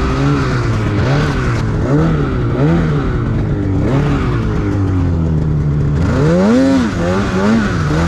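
Snowmobile engine revving up and down over and over as the throttle is worked, with one higher rev about six and a half seconds in.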